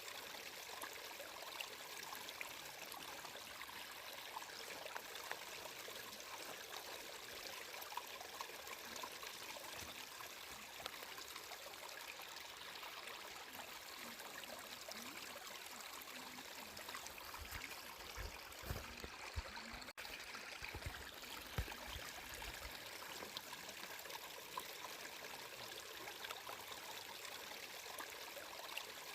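Stream water flowing and trickling steadily, with many small splashes. A few low thuds come about two-thirds of the way through.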